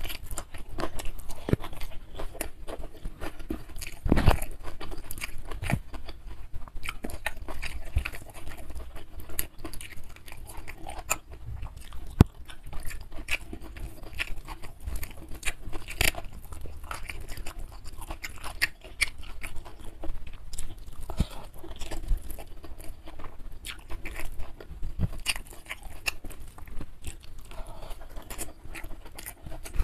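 Close-miked chewing of rice and side dishes, with many irregular wet mouth clicks and smacks. Fingers gathering rice off a banana leaf are heard now and then.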